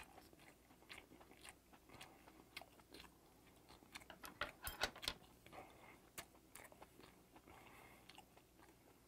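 Quiet, close-miked chewing of a mouthful of steamed skate: a run of soft clicks, busiest about four to five seconds in.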